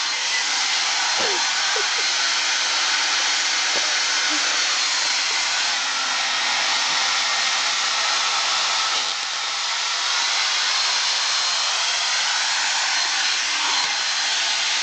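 Hand-held hair dryer running steadily with a loud, even blowing hiss, dipping slightly about nine seconds in.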